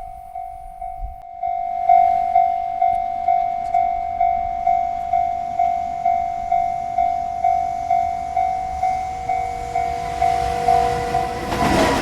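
Railroad crossing warning bell ringing about twice a second, growing louder about a second and a half in. Near the end a train horn sounds and the rumble of an approaching freight train rises.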